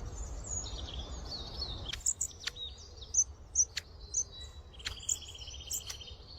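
Small songbirds chirping, with short high notes and quick downward-sliding calls, then a fast trill about five seconds in. A low background rumble drops away about two seconds in.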